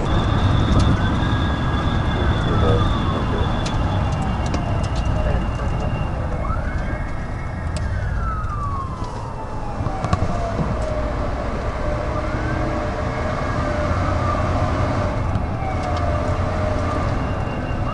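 Police siren in a slow wail: three long sweeps, each rising quickly and then falling away over about five seconds. Underneath runs a steady low rumble of engine and road noise.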